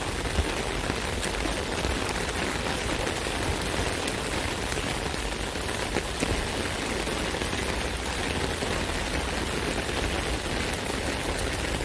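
Steady rain falling on an umbrella canopy: a dense, even patter of drops with now and then a louder, heavier drop.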